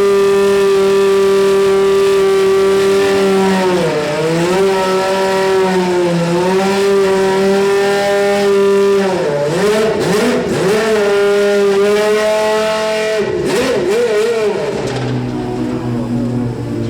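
Racing car engine held at high revs at a steady pitch, dropping briefly and picking up again several times, with quick up-and-down warbles in two of the dips. Near the end the engine note falls to a lower, quieter pitch.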